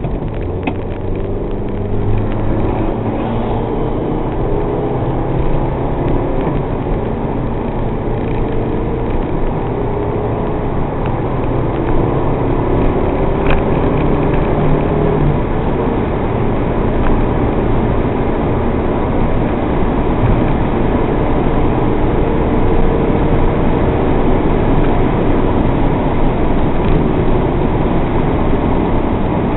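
MG TF's four-cylinder engine under load on track, heard from inside the cabin, its pitch rising and falling as the car accelerates and eases off, over steady road and wind noise.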